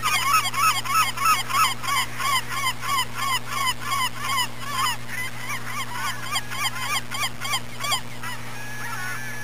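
Birds calling in a fast run of repeated short, hooked calls, about four a second, thinning out after about five seconds.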